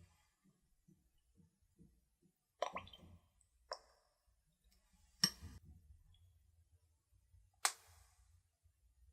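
Kitchen utensils and dishes knocking and clinking during food preparation: faint soft taps at first, then a few sharp separate clicks and clatters several seconds apart.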